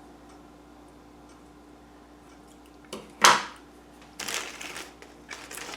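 Faint steady hum of a quiet room, then about three seconds in a sudden loud crackle followed by irregular rustling as small craft pieces and their packaging are handled and sorted through.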